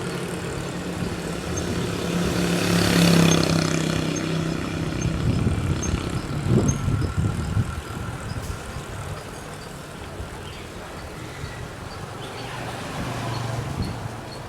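Motor traffic on a busy road passing close by. One engine drone swells and fades about three seconds in, there is rough rumbling after it, and another vehicle comes up near the end. A faint regular ticking runs underneath, at about two ticks a second.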